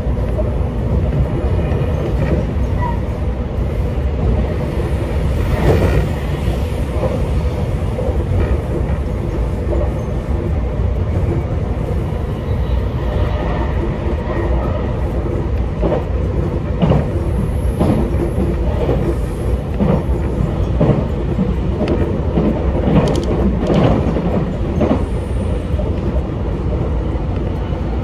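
Moving train heard from inside the passenger car: a steady low rumble with wheels clacking over the rail joints, the clacks coming more often in the second half.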